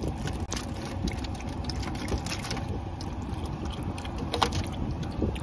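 Car engine running, heard from inside the cabin: a steady low rumble with a few light clicks and rattles.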